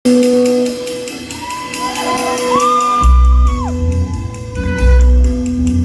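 Live rock band playing loud in a large hall: held electric guitar tones with sliding notes, then a heavy bass line comes in about three seconds in, with crowd shouts over the music.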